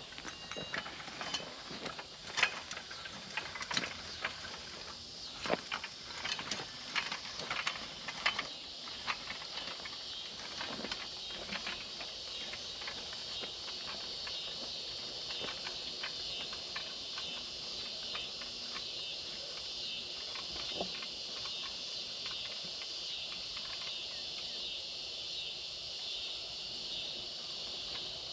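Earthway push seeder rattling and clicking as it is pushed along a garden row dropping beet seed, the clicks irregular and thinning out about halfway through. A steady high-pitched hiss runs underneath.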